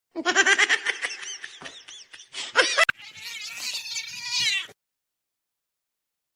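A domestic cat meowing and yowling in wavering, drawn-out calls for nearly three seconds. After a sudden break, a second stretch of yowling follows and stops abruptly.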